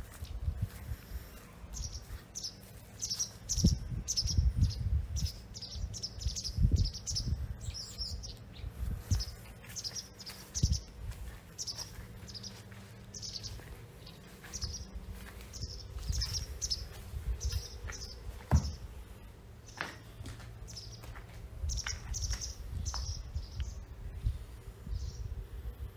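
Small birds chirping: short, high calls repeated in quick runs. Under them are irregular low rumbling and a few sharp bumps, which are the loudest sounds.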